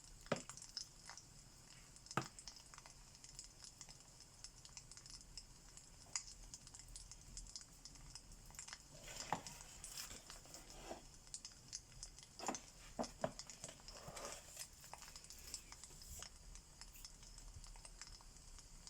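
Faint fireplace crackling: a steady soft hiss with scattered sharp pops and clicks, a cluster of them in the latter half.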